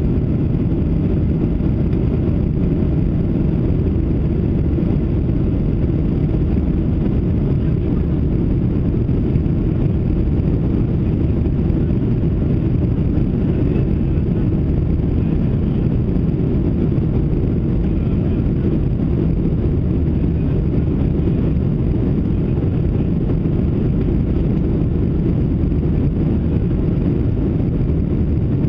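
Steady cabin noise of a Boeing 737-700 under power: a constant low drone from its CFM56-7B turbofan engines mixed with airflow rush, with no change in pitch or level.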